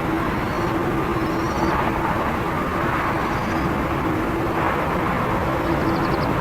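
Aircraft engines running: a steady rushing noise with a constant low hum, and a few faint high chirps through it.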